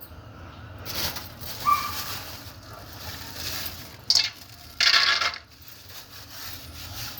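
Metal spoon stirring and scraping dry flattened rice and peanuts in a pan, in several short rattling, clinking bursts, the loudest about five seconds in.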